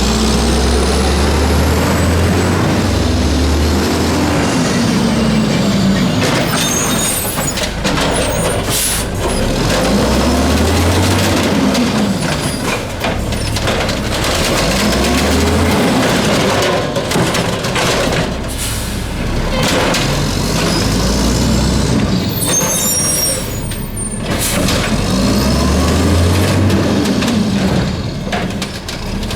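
Diesel engine of a Mack LE garbage truck with an automated side-loader arm, revving up and falling back about four times as it drives the arm's hydraulics through its cycles. Short air brake hisses come about a quarter of the way in and again past three-quarters.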